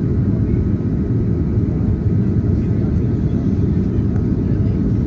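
Steady, deep rumble of an Airbus A330-900neo in flight, heard from inside the passenger cabin: engine and airflow noise.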